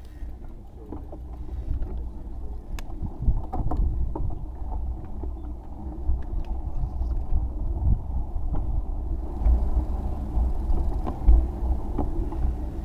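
Wind buffeting the microphone and road noise during a bicycle ride: a steady low rumble with scattered small clicks and rattles.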